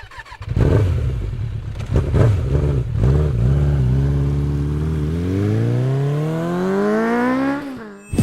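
Triumph Rocket III's three-cylinder engine through a custom exhaust: a few sharp blips of the throttle, then a long steady climb in revs that drops away near the end.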